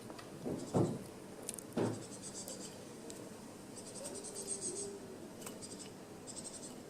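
Insect chirping: rapid high trills that come in short bursts every second or two. Two dull low thumps about a second apart near the start are louder than the chirping.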